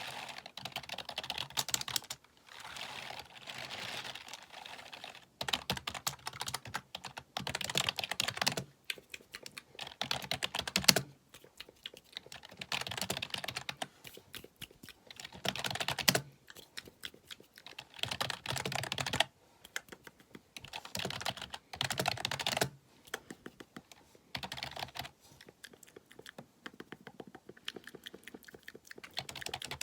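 Fast typing on a computer keyboard: rapid runs of key clicks a second or few long, broken by short pauses.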